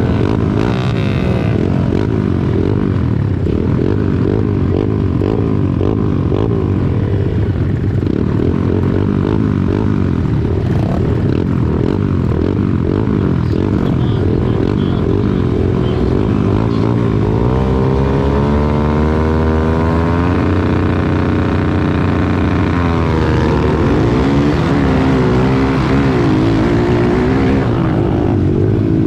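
Several small pit bike engines running together in a dense, steady drone, revving throughout. About 17 seconds in, one engine's pitch falls and holds steady, then climbs again at around 23 seconds.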